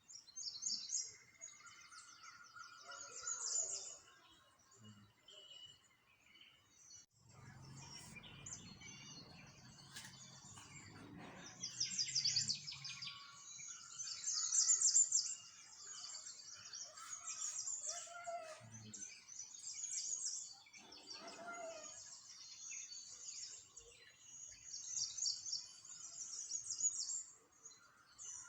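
A chorus of small birds chirping and twittering continuously, with high, rapid chirps. A low rumble comes in about eight seconds in and lasts several seconds.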